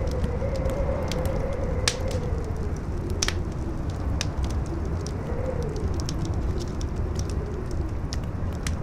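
Campfire crackling, with scattered sharp pops, a few of them loud. Under it, wind rumbles steadily and howls in a faint tone that wavers up and down.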